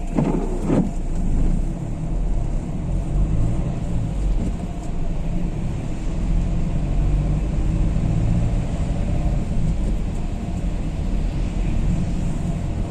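Diesel Renault Kangoo's engine and road noise heard inside the cabin: a steady low rumble.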